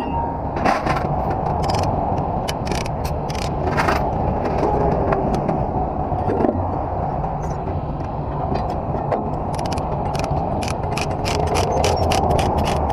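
Truck engine running steadily, with a series of sharp metallic clicks over it that come faster near the end, like a ratchet being worked.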